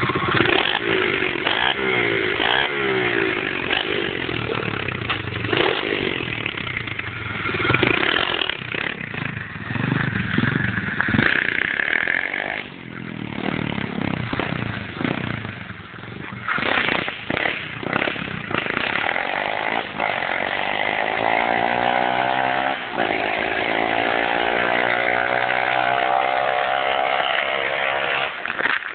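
A 125cc four-stroke pit bike engine being ridden hard, revving up and falling back again and again. Near the end comes one long, steady climb in pitch under acceleration.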